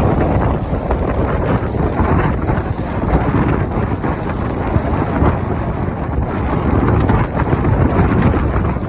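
Strong wind buffeting the microphone aboard a sailing yacht: a loud, continuous low rumble that rises and falls with the gusts.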